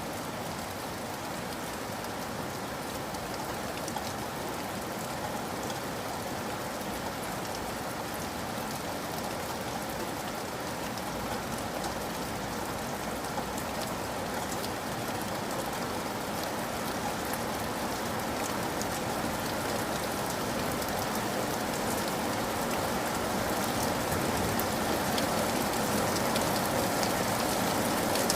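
Steady rain falling, a dense patter of drops on a surface, swelling slightly louder toward the end.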